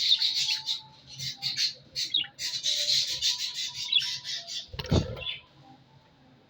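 Pet parrots squawking and chattering in rapid, harsh bursts, which stop about five seconds in. A single thump comes just before the calls end.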